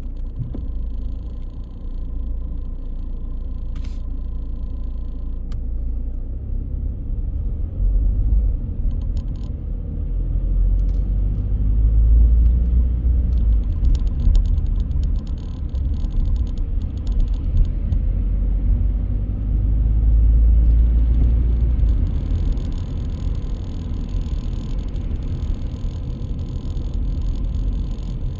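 A car driving: a steady low rumble of engine and tyres on the road, growing louder twice in the middle before settling back.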